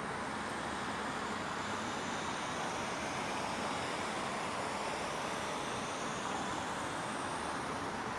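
Steady ambience of a residential neighbourhood: an even wash of distant traffic noise, with no single sound standing out.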